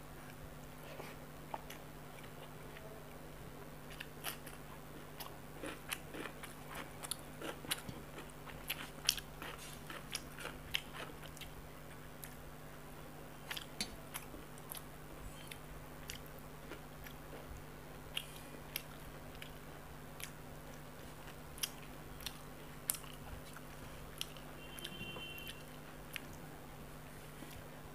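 A person eating parshe fish and rice by hand close to the microphone: chewing and biting with many small scattered crunches and clicks, over a faint steady hum.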